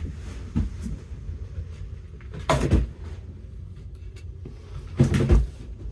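Handling noise from a steel M1C paratrooper helmet being worn and its chin strap fastened: a light rubbing throughout, with two louder knocks or scrapes, about two and a half seconds in and about five seconds in.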